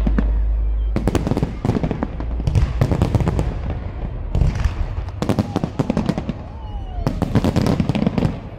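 Aerial firework shells bursting overhead: repeated clusters of sharp bangs and crackling every second or two.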